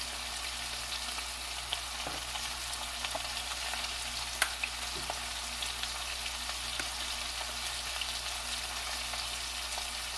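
Andouille sausage, onion and freshly added sliced cabbage sizzling steadily in an enamelled cast-iron pan. A few faint ticks, and one sharp tap about four seconds in.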